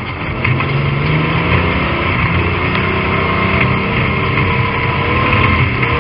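Stock car engine under power, heard from inside the cockpit, running hard with its pitch climbing gradually.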